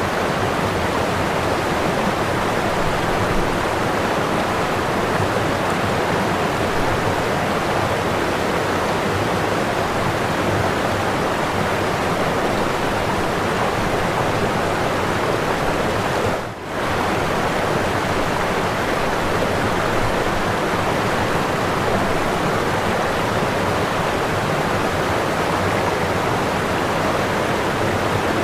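Whitewater pouring over a waterfall: a loud, steady rush with no let-up, dipping briefly for a moment a little past halfway.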